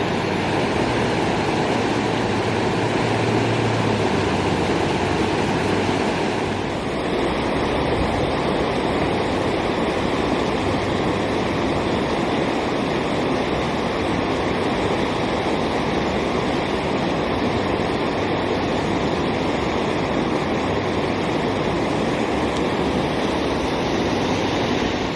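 Rushing water: a loud, steady rush with a slight change about seven seconds in.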